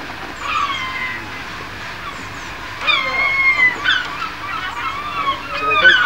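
Birds calling: one falling call about half a second in, a longer, louder call about three seconds in, then a quick run of short calls near the end.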